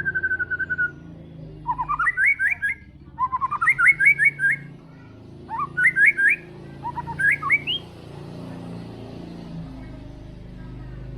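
White-rumped shama singing: a trilled whistle that ends about a second in, then four quick bursts of rapid rising whistled notes. The song stops a few seconds before the end.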